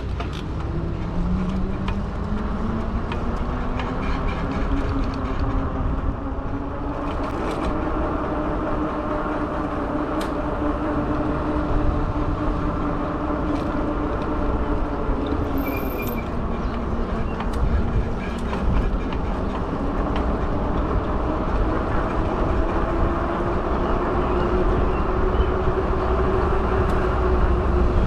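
Fat-tire e-bike riding along, its electric motor whining and rising in pitch as it picks up speed, easing off about halfway through and then climbing again, over a steady wind rumble on the microphone.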